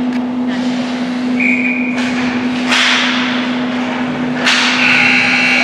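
Ice hockey rink sounds: sharp cracks and scrapes of sticks, puck and skates, loudest a couple of seconds in, over a steady hum. Near the end louder noise with held high tones comes in, leading into arena music.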